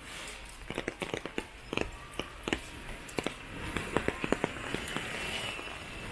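Rain falling, with a run of irregular sharp taps and clicks close by, loudest in the middle of the stretch.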